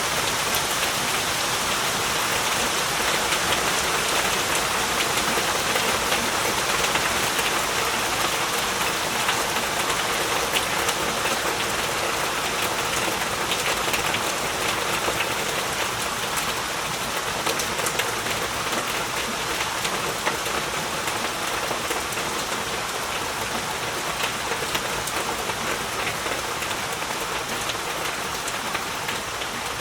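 Heavy rain falling steadily, a dense hiss full of fine drop ticks.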